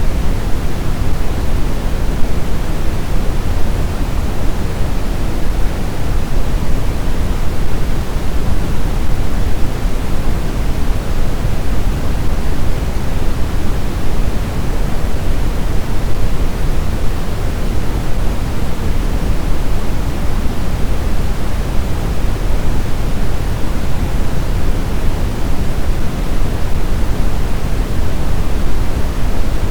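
Blizzard wind as a steady, dense rushing noise, heaviest in the low end, with no gusts swelling and falling and no whistling or howling tones.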